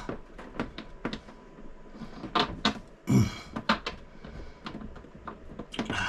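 Irregular small clicks and taps of nuts and toilet-mounting hardware being handled and fitted by hand, with a louder knock about three seconds in.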